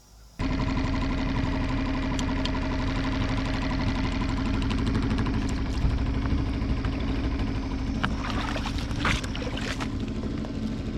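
Small boat motor on a fishing kayak running steadily at constant speed, with water noise under the hull. It cuts in suddenly about half a second in.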